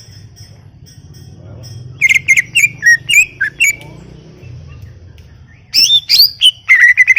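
Greater green leafbird (cucak ijo) singing: after a short pause, a run of sharp whistled notes, a brief gap, then a fast trill near the end that rises in pitch.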